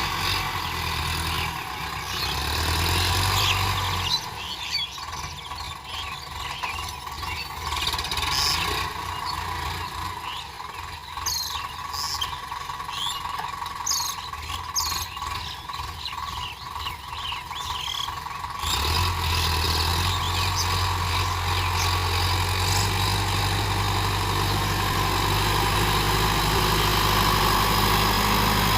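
A tractor engine running steadily. About four seconds in it gives way abruptly to a quieter stretch of many short, high squeaks, and the engine hum comes back abruptly a few seconds before the end.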